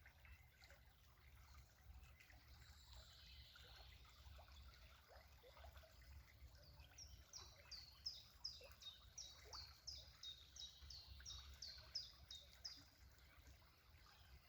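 Faint trickling stream, with a songbird singing a run of about twenty quick, high, repeated notes, each sliding down in pitch, in the second half.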